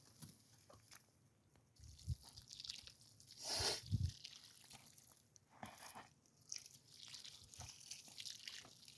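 Faint, scattered crunching and crackling with small clicks, louder once about three and a half seconds in.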